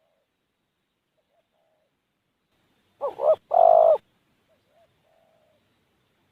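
Spotted doves cooing. Faint, distant coos sound throughout, and about three seconds in one dove gives a loud, close two-part coo lasting about a second.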